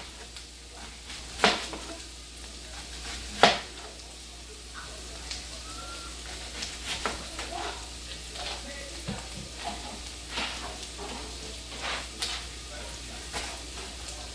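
Carrots and celery sizzling in a pan as they are stirred, with several sharp knocks of a utensil against the pan, the loudest about three and a half seconds in.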